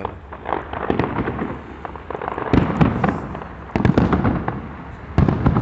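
Fireworks display: a run of shell bursts with crackling in between. The three loudest bangs come in the second half, a bit over a second apart.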